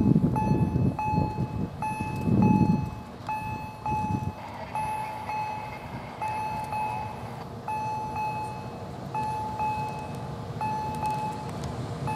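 Freight train of tank wagons approaching behind a class 181 electric locomotive, a low rumble that is loudest in the first few seconds. Over it an electronic warning beep repeats evenly, about twice a second.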